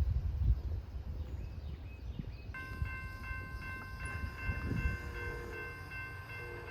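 A railroad grade-crossing bell starts ringing about two and a half seconds in, with a steady, rapid ding, over a low rumble.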